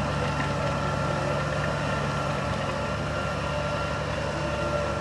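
Heavy diesel engine of earth-moving machinery running steadily at low revs.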